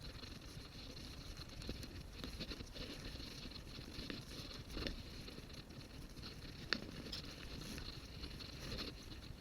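Low steady rumbling noise with scattered light clicks and taps, and one sharp click about two-thirds of the way through.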